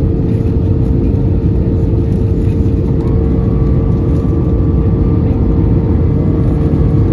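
Steady cabin noise inside an Airbus A320-214: the CFM56 turbofan engines and airflow running with a deep rumble and a steady hum, and a fainter higher tone in the middle.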